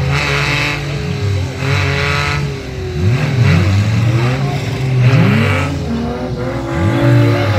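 Banger racing cars' engines revving hard, their pitch swinging up and down in surges. Several short bursts of tyre noise come as the wheels spin while the wrecked cars push against each other.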